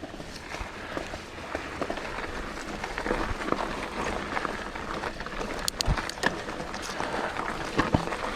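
Mountain bike riding along a dirt trail: tyres rolling over the ground, with frequent small knocks and rattles from the bike and a few sharper clacks near the end.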